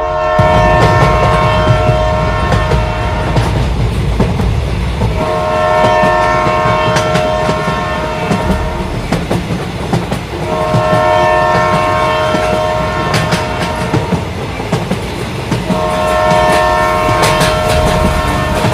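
A train passing close by, sounding its horn in four long blasts of about three and a half seconds each, with its wheels clattering over the rails and a steady low rumble underneath.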